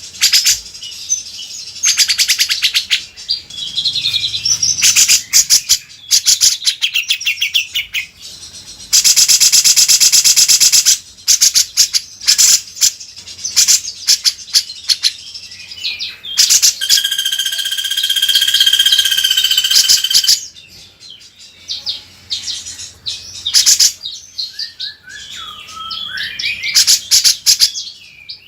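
Songbird masteran (bird-song training recording) for a cucak jenggot: a busy run of high chirps and rapid trills. About a third of the way in there is a loud buzzing rattle lasting about two seconds, later a held whistled note, and near the end a few falling whistles.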